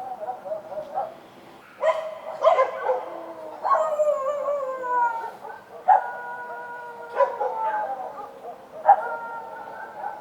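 Street dogs barking and howling: about six sharp barks, each drawn out into a long howl that slides down in pitch.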